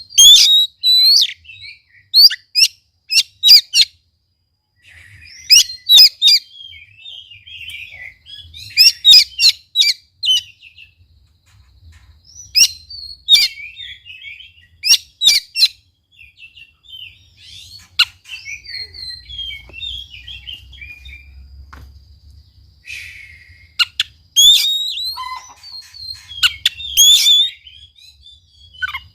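Oriental magpie-robin (kacer) in full song: loud, sharp whistles and rapid chirps between about 2 and 8 kHz, delivered in clustered bursts with short pauses between phrases.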